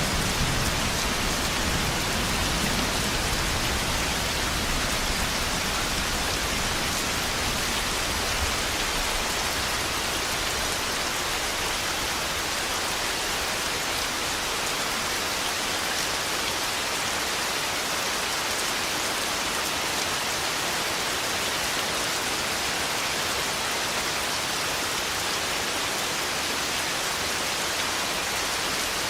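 Steady, heavy rain falling, an even hiss. A low thunder rumble dies away over the first several seconds.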